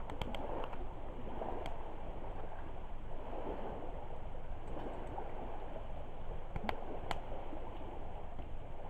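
Driftwood campfire burning with a steady rushing noise and sharp crackling pops: a few near the start and two louder pops about half a second apart near the end.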